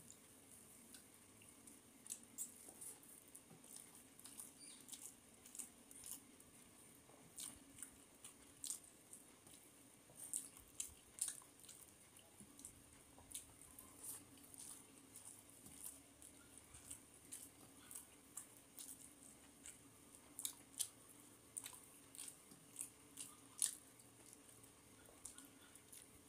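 Faint, close-miked chewing and mouth smacks of a person eating rice mixed with crushed papad by hand, in short irregular clicks throughout.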